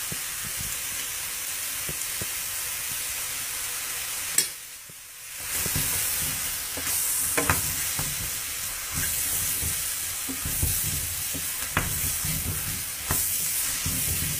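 Mushrooms, onion and bacon sizzling in hot butter in a stainless steel pot, with a wooden spatula stirring and scraping as flour is worked in. The sizzle dips briefly about four and a half seconds in, then comes back louder with the stirring strokes and a few sharp clicks of the spatula on the pot.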